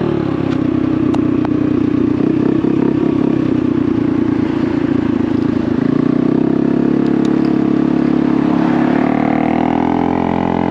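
Honda Navi's small single-cylinder engine running through a Vance & Hines aftermarket exhaust while riding. The pitch drops at the start as the throttle eases off, holds fairly steady, and climbs again near the end as it is opened back up.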